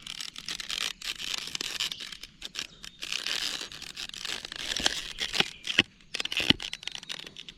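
Plastic crinkling and rustling as it is handled, with small irregular clicks and scrapes.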